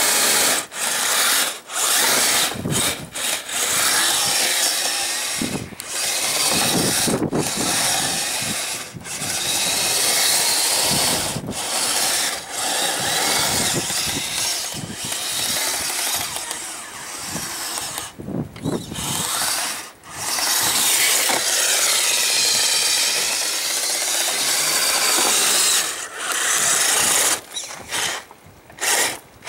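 Two Traxxas 380 electric motors and their gearboxes in a radio-controlled tracked snow vehicle whining as it drives, stopping and starting many times with short pauses. Near the end the pitch rises and falls with the throttle.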